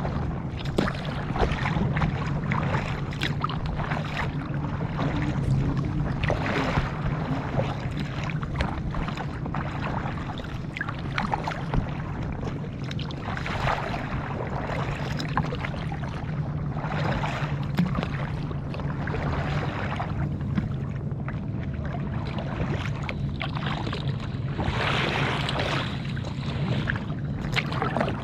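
Kayak paddle strokes swishing and splashing in the water at an even pace, about one every three to four seconds, from a small inflatable kayak, over a steady low rumble.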